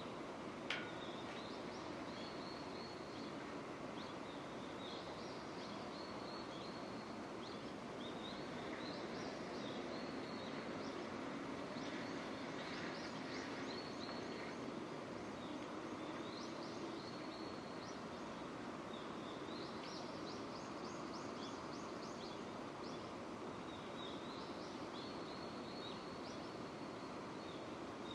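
Steady rain falling, with short high chirps repeating over it every second or two and a single sharp click about a second in.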